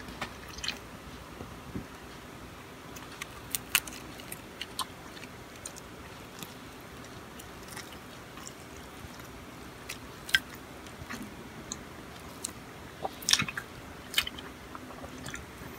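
A person chewing fried beef and lettuce with mayonnaise, heard close up: irregular wet mouth clicks and smacks against a quiet background, the loudest about 4 seconds in and again near 13 seconds.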